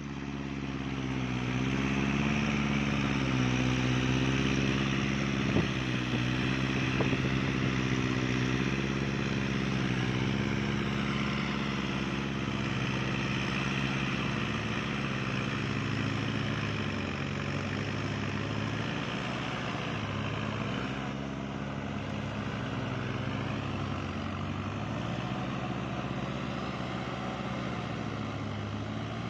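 Kubota tractor's diesel engine running under load while rotary tilling, its pitch sagging and recovering now and then.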